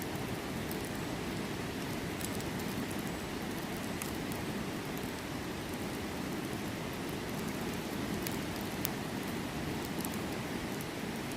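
Wood campfire crackling, with a few sharp pops, over the steady rushing of a river.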